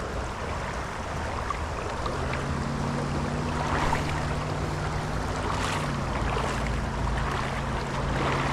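Moving creek water rushing and splashing around a wader's legs, with a few brief splashes; a steady low hum comes in about two seconds in.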